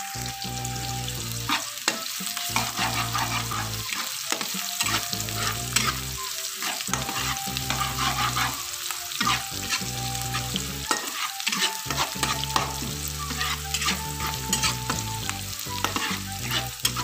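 Sliced shallots sizzling in hot oil in a wok, being fried until lightly browned, while a metal spatula stirs them with frequent scraping and tapping clicks against the pan.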